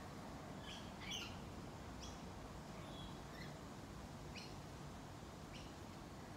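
Short, scattered bird chirps, loudest about a second in, over a faint steady background hiss.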